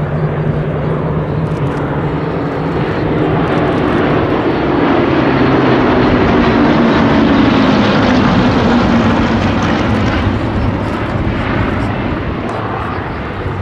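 Hawker Hurricanes' Rolls-Royce Merlin V12 piston engines droning in a flypast. The sound grows louder toward the middle and drops in pitch as they pass.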